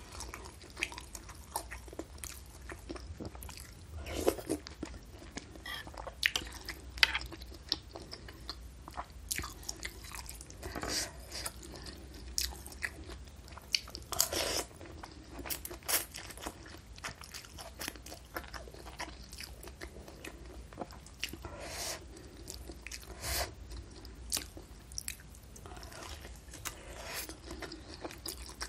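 Close-miked mouth sounds of eating beef meatballs and noodles in broth: wet chewing and biting with irregular sharp clicks, and a longer slurp of noodles about halfway through.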